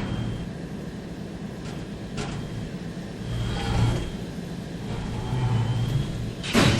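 Steady low rumble of an idling locomotive, swelling a little twice, with a sharp knock at the start and another near the end.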